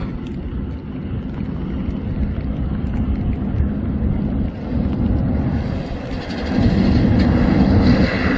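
Bus engine running with a low rumble, growing louder about six seconds in, when a steady engine hum comes up.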